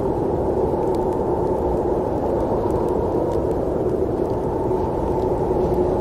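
Steady, muffled rumble of a train running, with a faint ticking now and then.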